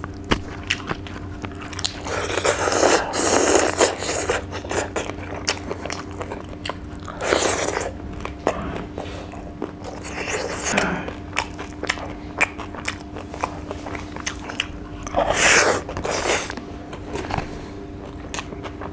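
Close-miked eating of fried fish and rice by hand: wet chewing and lip smacking with many small clicks, and about four louder bursts of crunching. A faint steady hum runs underneath.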